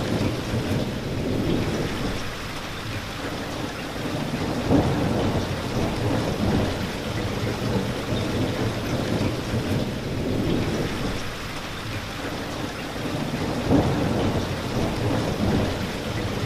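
Steady rain falling, with low rolling thunder rumbling in and out, swelling about five seconds in and again near the end.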